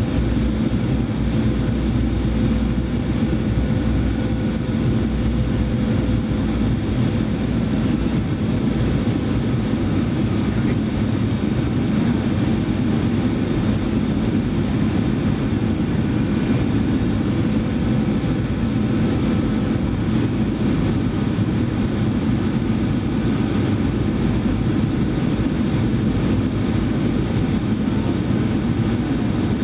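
Boeing 737-900ER cabin noise heard from a passenger seat during the descent: a steady rush of airflow and engine hum, with a thin high whine above it.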